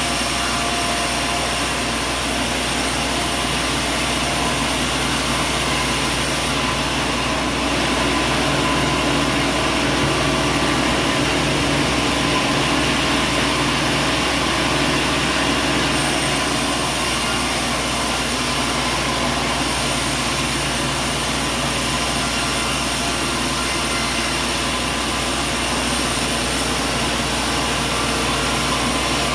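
Machinery running steadily, a dense even noise with a hum and several steady tones.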